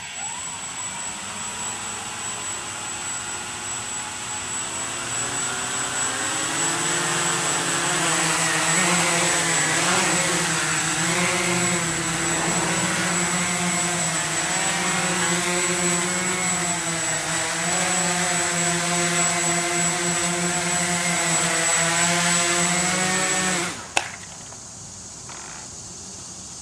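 Walkera QRX350 Pro quadcopter's motors and propellers spinning up and buzzing in flight, the pitch wavering with throttle changes and growing louder about six seconds in. The motors cut out abruptly near the end, followed by a single sharp knock.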